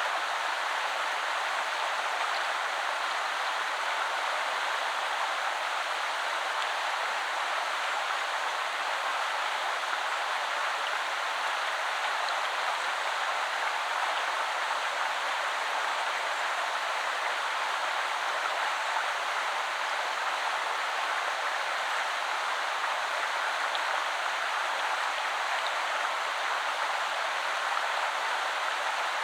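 Woodland river flowing, a steady even rush of water over stones.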